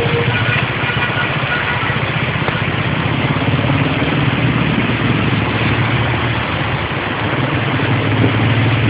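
Vehicle engine running steadily, with a continuous hiss over it.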